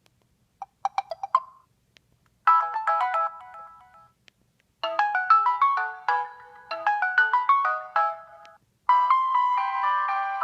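Samsung Chrono r621 cell phone playing melodic ringtones. A few short quick notes come about a second in. Chiming phrases follow with two short pauses, and a last ringing chord starts near the end and slowly fades.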